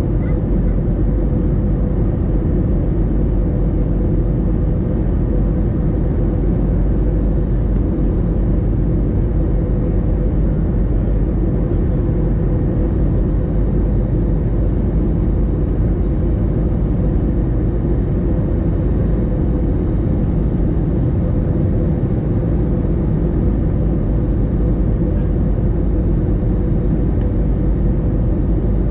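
Steady in-flight cabin noise of an Airbus A321: engine and airflow noise with a constant hum, unchanging throughout.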